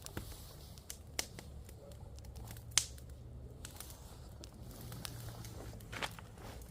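Firewood giving scattered sharp snaps and crackles, a handful of separate pops over a low steady background hum, the loudest a little under three seconds in.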